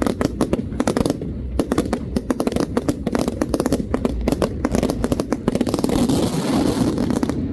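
Fireworks going off in a rapid string of sharp cracks and bangs. About six seconds in they merge into a dense hissing crackle that cuts off suddenly.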